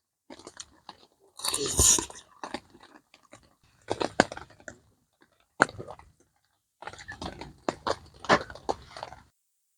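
A person eating close to the microphone, chewing a dinner of rice, liver and vegetables. Irregular bites come with short crunches and clicks, separated by brief pauses.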